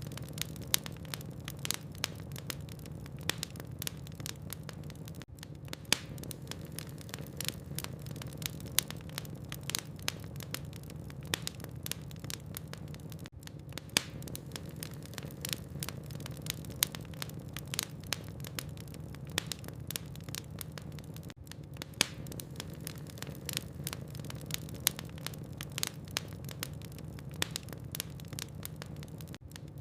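Wood logs burning in a fireplace, crackling with frequent sharp pops, a few of them much louder, over a steady low hum.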